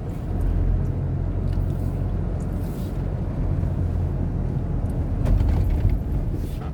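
Steady low engine and road rumble of a moving road vehicle.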